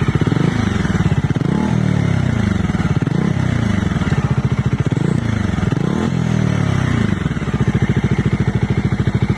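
Bajaj Dominar 400's single-cylinder engine revved several times through its dual-barrel exhaust, each blip rising and falling in pitch, then settling back to a steady idle for the last couple of seconds.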